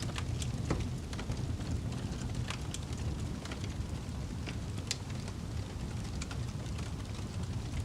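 A fire burning, with irregular sharp crackles and pops over a steady low rumble of the flames.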